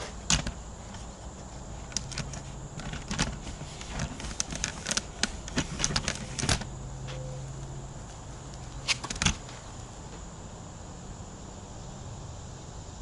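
Irregular light clicks and taps, as if from hands handling wires, connectors and tools. They bunch in the first half and there is a short cluster of sharper clicks near the middle, over a faint steady hum.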